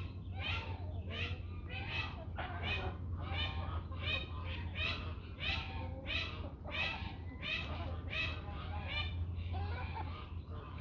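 Backyard poultry, chickens and turkeys, calling in a steady run of short calls, about two a second, over a low steady hum.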